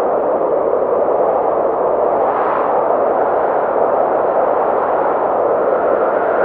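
Snowstorm wind: a steady, dull rushing that swells briefly about two and a half seconds in.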